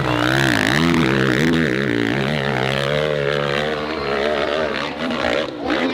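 Dirt bike engine running at high revs, its pitch wavering up and down as the throttle is worked, with a brief dip near the end.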